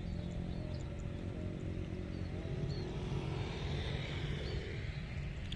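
Jet airliner engines rumbling steadily, with a higher engine rush swelling about halfway through, as the plane blasts jet exhaust. Birds chirp briefly over it.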